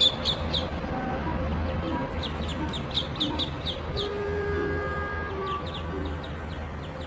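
Bird peeping: rapid series of short, high, slightly falling chirps, a few per second, at the start and again about two seconds in, over a steady low hum.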